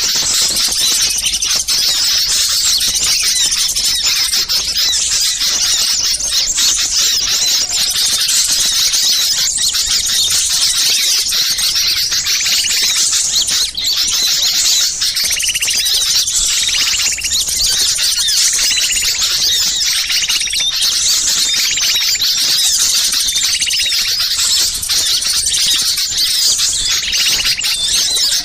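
Noisy chorus of many small songbirds chattering and twittering at once, a dense high-pitched stream of calls, with one short call repeating about every second and a half. This is the agitated small-bird racket used as a lure recording to draw in wild birds.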